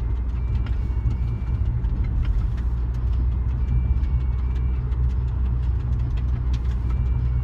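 Nissan Maxima heard from inside the cabin with its engine running: a steady low rumble, with a faint high-pitched tone coming and going every few seconds.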